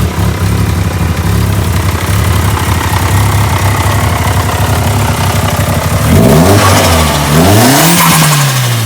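Volkswagen Mk4 Bora's engine with a newly fitted exhaust, idling steadily, then blipped twice from about six seconds in, the pitch rising and falling with each rev.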